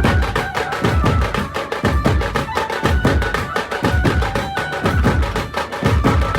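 Loud music played through a large DJ sound system, with a heavy bass beat about once a second under fast, dense percussion and a high melody line.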